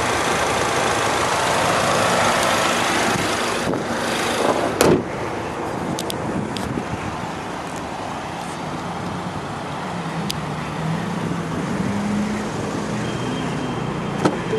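A 2015 Ford Mustang Roush Stage 1's 2.3-litre EcoBoost turbocharged four-cylinder idling, heard loud and close from the open engine bay. A single loud thump about five seconds in is the hood being shut, after which the idle is quieter.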